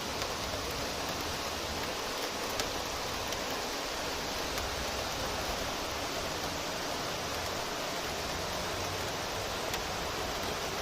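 Heavy rain pouring down in a steady, even hiss, with now and then a sharper tap of a single drop.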